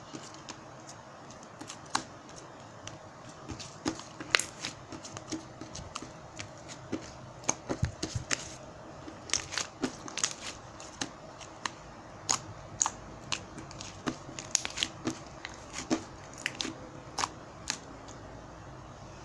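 Slime being played with by hand, giving irregular sharp popping clicks, several a second with short pauses.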